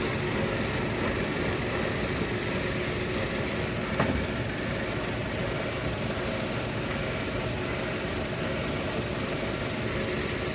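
Steady hum of an idling vehicle engine, with one sharp knock about four seconds in.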